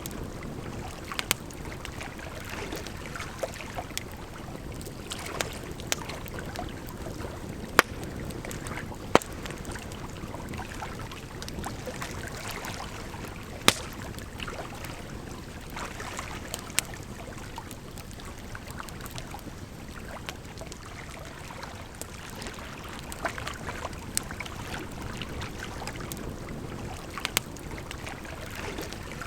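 Campfire crackling, with sharp irregular pops over a steady rush of flowing water.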